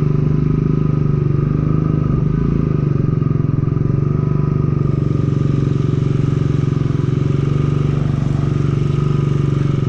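Motorcycle engine running at an even, unchanging pace, close and loud. A faint hiss joins it about halfway through.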